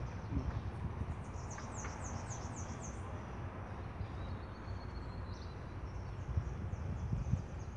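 A small bird singing a quick run of high, falling notes, about five a second, over a low steady outdoor rumble; a thin high note is held briefly near the middle, and a few fainter falling notes come near the end.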